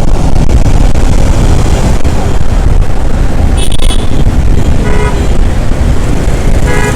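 Heavy wind and road rumble on a riding motorcycle's microphone in city traffic. Three short vehicle horn toots sound, the first a little over halfway through and the other two near the end.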